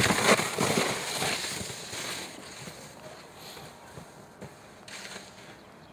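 Sled sliding over packed snow: a rush of scraping and crunching that starts suddenly, is loudest for the first second or so and fades over about two seconds, with fainter snow noise after.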